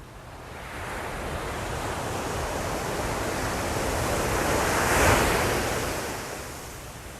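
Ocean surf: one wave builds, breaks and crashes about five seconds in, then washes back and fades.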